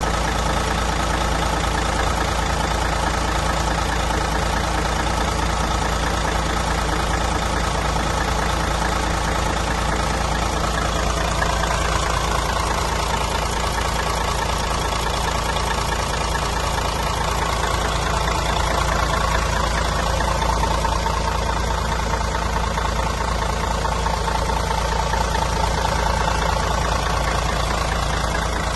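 Diesel engine of a Mercedes-Benz Integro O 550 coach bus idling steadily, with a deep rumble and a slight knock.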